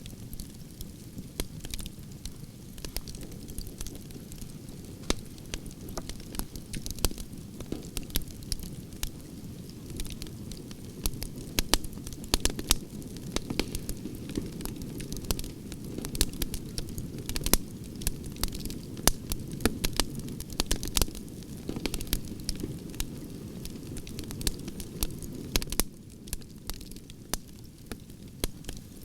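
Wood fire burning, its logs crackling with frequent sharp pops and snaps over a steady low rumble of flame.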